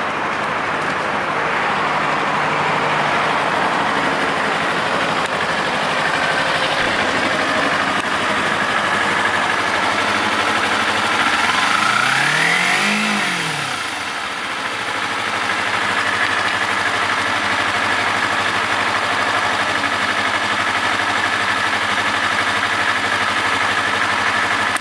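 A motor vehicle engine over a steady noisy background, its pitch rising and falling once about halfway through, like a brief rev.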